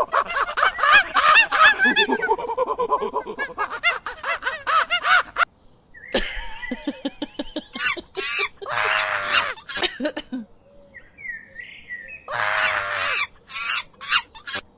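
An animal's repeated harsh, wavering calls: a fast, dense run for the first five seconds or so, then after a short pause several separate harsh calls with short gaps between them.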